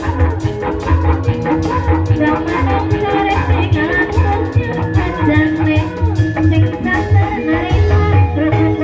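Live Javanese ebeg dance accompaniment (gending ebeg): a percussion ensemble playing a steady, dense rhythm, with low drum strokes, sharp rattling strikes and pitched melodic notes.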